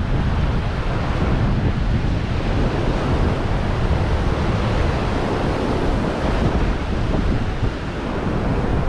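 Ocean surf breaking on a sandy beach with wind buffeting the microphone: a steady rushing noise with a heavy low rumble.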